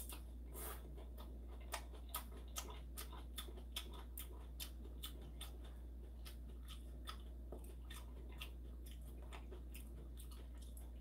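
Close-up chewing of a mouthful of yangjangpi, heard as soft wet mouth clicks, about two or three a second at first and thinning out after a few seconds. A low steady hum runs underneath.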